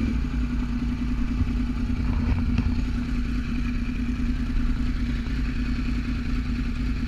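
Yamaha R1 sportbike's crossplane inline-four engine idling steadily.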